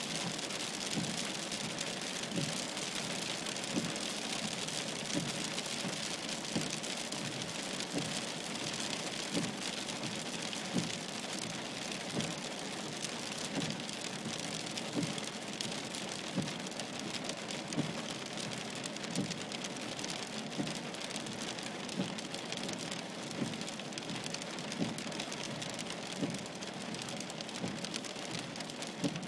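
Heavy rain mixed with hail falling on a car, heard from inside the cabin as a dense hiss of small hits, with a regular knock about every second and a half.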